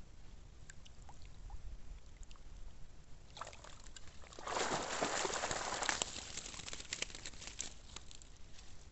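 Water sloshing and splashing in a burst of about a second and a half, a little past the middle, with small drips and clicks around it.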